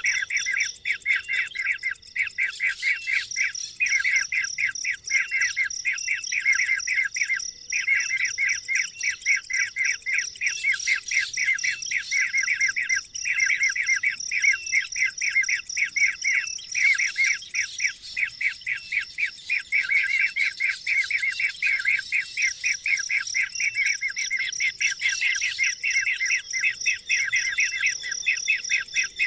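Birds chirping in a fast, continuous run of short high notes, over a steady high-pitched whine.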